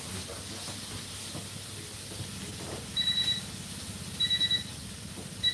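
An electronic appliance beeper sounding three short, high, even beeps about a second and a quarter apart, over a steady low running hum and hiss.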